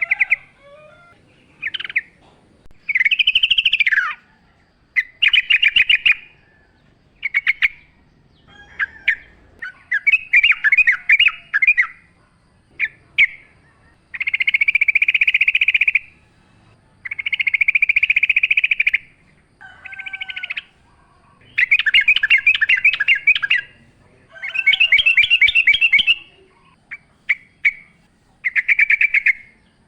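Yellow-vented bulbul (trucukan) singing: a string of bubbly, chattering phrases, each up to about two seconds long, with short pauses between them.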